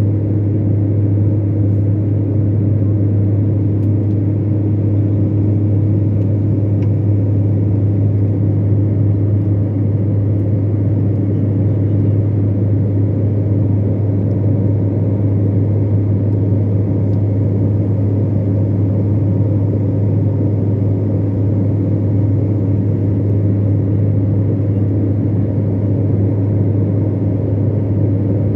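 Steady drone of a passenger airliner in flight heard from inside the cabin: a loud, even, deep hum with a fainter higher tone above it.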